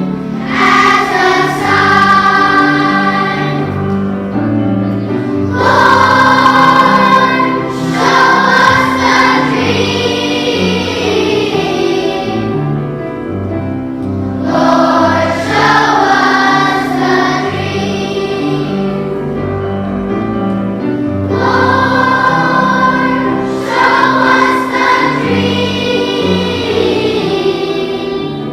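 Children's choir singing a song together over instrumental accompaniment, in long phrases with short breaks between them.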